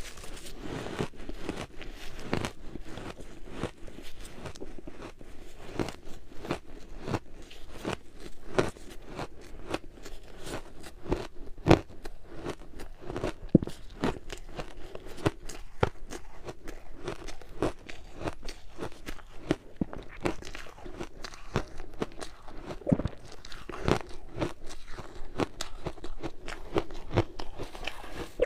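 Purple ice being bitten and chewed close to the microphone: a continuous run of sharp, crisp crunches, with two louder bites a little before 12 s and around 13.5 s.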